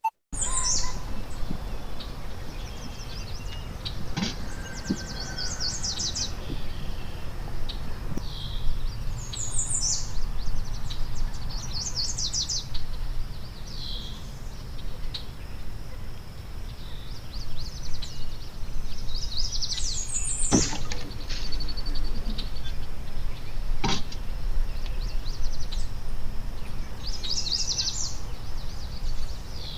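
Wild songbirds singing at a feeder: short, high, rapid trilled phrases repeating every couple of seconds, over a steady low outdoor rumble. Two sharp clicks sound about two-thirds of the way through.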